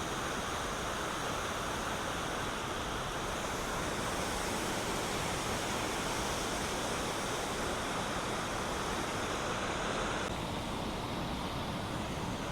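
Steady rushing of a mountain waterfall and stream, an even roar of falling water that dulls slightly about ten seconds in.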